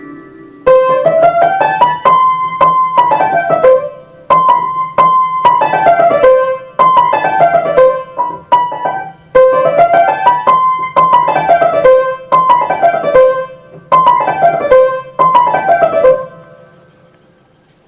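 Piano playing fast runs of notes that climb and fall again in repeated short phrases, stopping about sixteen seconds in and ringing away.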